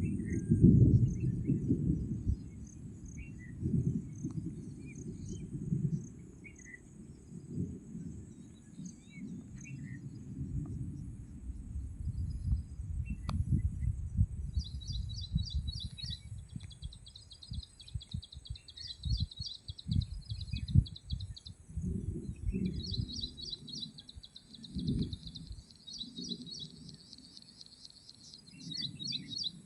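Outdoor ambience: a low rumble like wind or handling noise, scattered short bird chirps, and a rapid high trill that comes in about halfway through, stops briefly, then returns and runs on.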